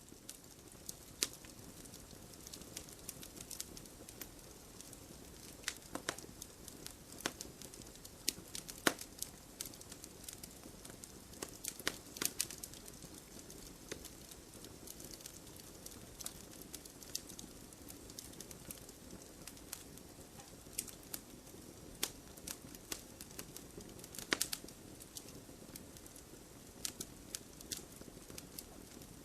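Wood fire burning, with irregular crackles and sharp pops from the burning logs over a soft steady hiss; the louder pops come about 1, 6, 9, 12 and 24 seconds in.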